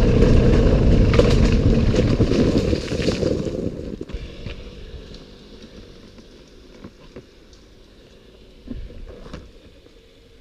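A motor vehicle's loud rumble that fades away about four seconds in, leaving quiet with a few light clicks.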